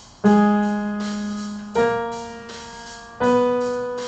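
Piano playing a short ear-training pattern of three single notes about a second and a half apart, each struck and dying away, stepping upward from G sharp, for students to play back by ear.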